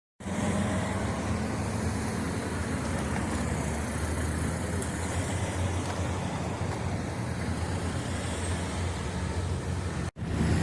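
Steady car engine and road noise as heard on a dashcam recording of a vehicle driving, with a low engine hum under the tyre noise. It cuts out abruptly near the end, then a similar vehicle sound resumes.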